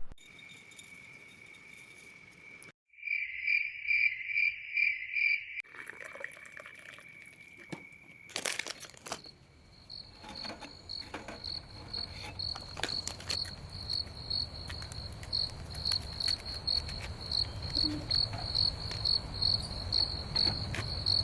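Crickets chirping at night. First a steady trill, then a burst of loud, evenly spaced chirps about three a second. From about ten seconds in a higher-pitched chirp repeats two to three times a second, with scattered clicks and a low rumble underneath.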